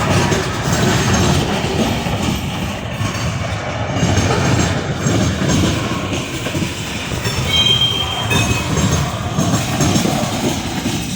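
Railroad cars rolling past, their wheels rumbling and clattering on the rails, with a brief high squeal about three-quarters of the way through.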